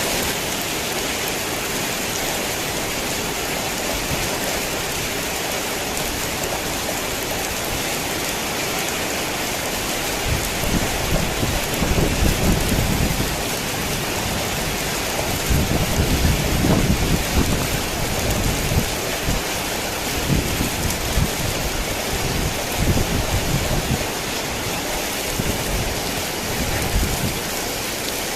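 Heavy rain falling steadily, with low rolling thunder rumbling about a third of the way in and again around the middle, then smaller rumbles trailing off.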